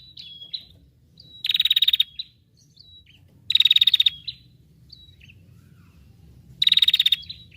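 A small songbird singing a loud, very fast trill of rapid repeated notes, three times, about two to three seconds apart, with short thin whistled notes in between.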